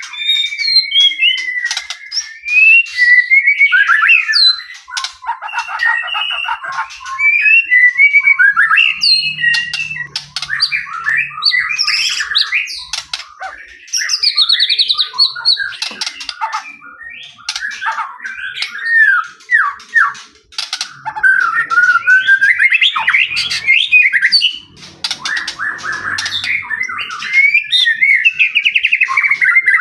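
White-rumped shama (murai batu) in full song: a loud, near-unbroken run of varied whistles, fast trills and harsh chattering notes with only brief gaps.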